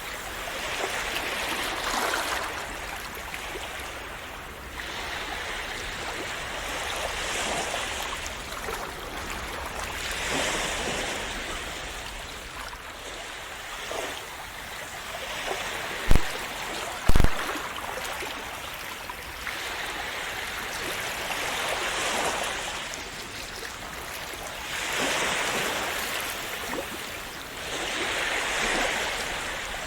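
Calm sea waves washing in and splashing, swelling and fading every few seconds. About halfway through come two brief low thumps a second apart.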